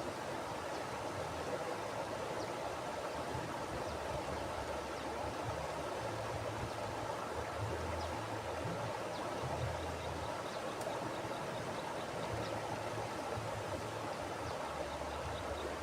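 Mountain river flowing over rocks: a steady rush of water, with a low rumble underneath.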